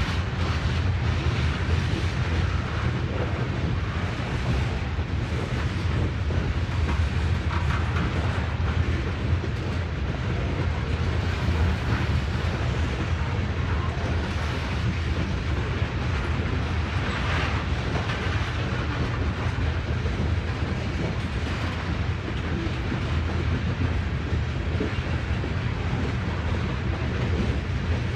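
Train cars rolling past on the rails: a steady low rumble with wheel clatter that goes on without a break.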